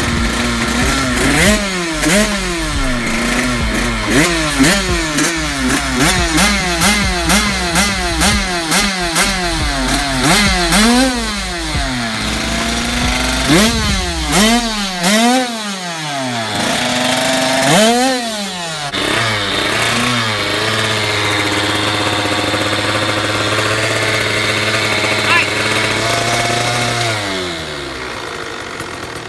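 Two-stroke single-cylinder engine of a 2021 KTM 85 SX dirt bike being revved over and over, about one quick blip a second, then a few slower revs before it settles into a steady idle that sags and dies away near the end.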